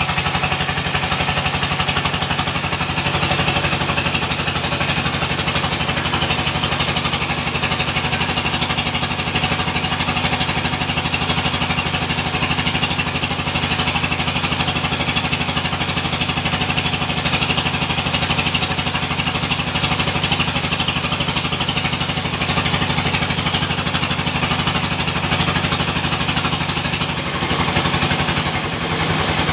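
An engine running steadily at an even speed, with a brief dip in level near the end.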